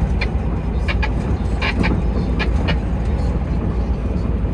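Heavy truck running on the road, heard from inside the cab as a steady low engine and road rumble. Several short clicks and knocks come in the first three seconds.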